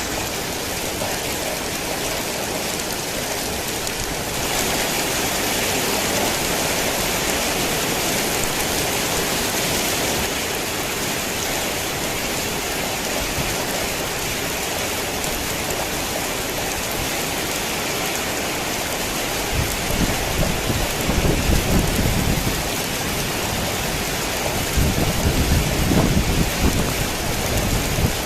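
Steady heavy rain, falling harder for a few seconds near the start, with two spells of low rumbling thunder in the last third.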